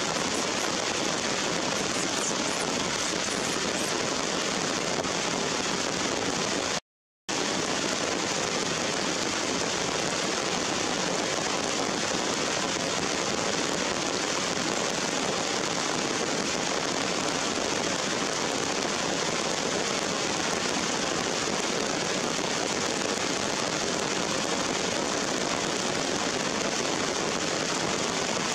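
Steady rain falling on wet leaves and rock, an even hiss. The sound cuts out completely for a moment about seven seconds in.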